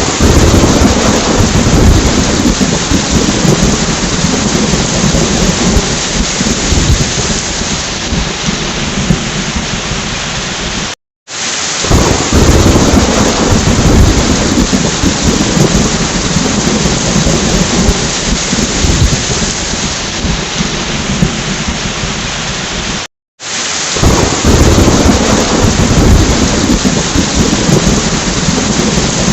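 Steady heavy rain with low rolling thunder, played as a recording loop of about twelve seconds. Brief dead silences about 11 and 23 seconds in mark where the loop restarts, each time with a swell of thunder rumble.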